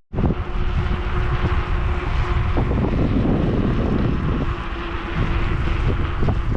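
Riding an electric mountain bike, with wind buffeting the microphone and tyre rumble. Under it runs a steady whine, likely from the motor, which drops out about two and a half seconds in and comes back near four and a half seconds.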